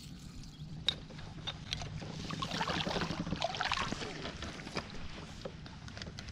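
Water splashing and sloshing around a kayak, with a sharp click about a second in and a busier stretch of splashing and small knocks in the middle.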